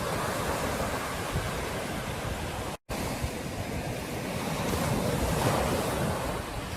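Ocean surf washing steadily onto a beach, swelling louder in the second half as a wave breaks. The sound cuts out completely for a split second just before three seconds in.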